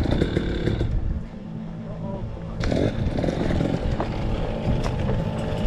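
KTM 300 two-stroke dirt bike engine running: loud at first, falling away about a second in, then back at a steady note from nearly three seconds on.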